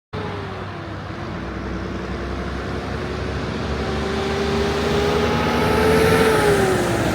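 A big truck driving past on the road, engine and tyre noise growing louder as it approaches, its hum dropping in pitch as it goes by near the end.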